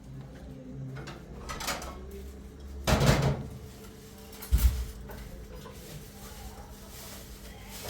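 Dishes and pots being handled: a few clattering knocks, the loudest about three seconds in, and a dull heavy thump about a second and a half later.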